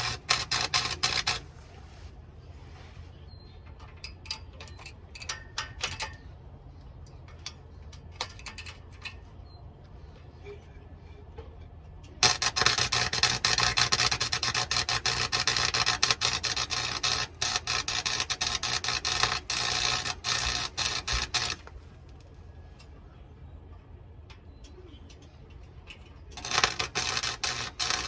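Electric arc welding on a truck exhaust pipe: the arc crackles and sizzles in three runs, briefly at the start, then a long bead of about nine seconds from around twelve seconds in, and another starting near the end. Between beads a low steady hum and scattered ticks remain.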